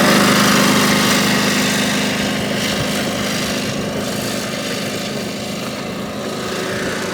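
A small engine runs with a steady hum, then fades away over the first few seconds.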